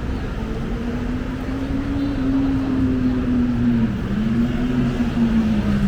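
Road traffic on a busy city street, with one vehicle engine close by whose pitch rises, dips about four seconds in, then rises again over a steady low rumble.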